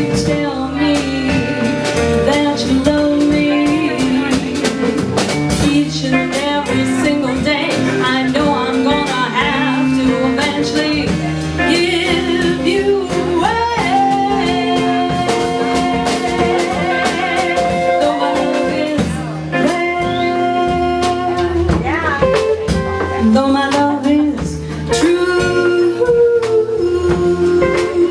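Live pop song: a female singer with a backing band, sustained sung notes over the instruments.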